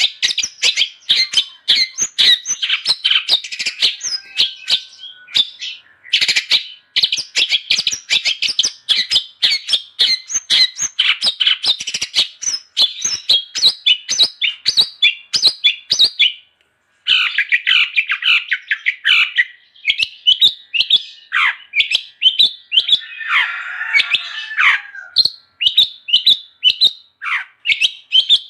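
Long-tailed shrike (cendet) singing a fast, continuous chattering song of short, sharp notes. It breaks off briefly about six and seventeen seconds in, and gives a harsher, rasping note around twenty-three seconds in.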